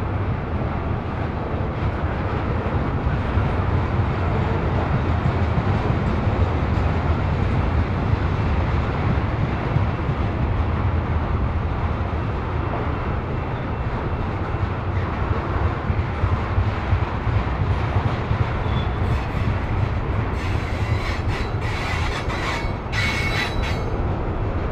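Freight train of tank cars rolling past: a steady rumble and clatter of steel wheels on the rails, with a brief high-pitched wheel squeal near the end.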